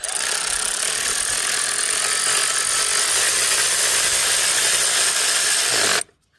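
Power ratchet running steadily, spinning a new spark plug down into the cylinder head, then stopping suddenly about six seconds in.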